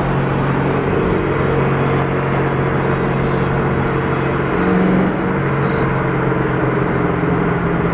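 A car engine running steadily with road noise, rising briefly in pitch and loudness about five seconds in.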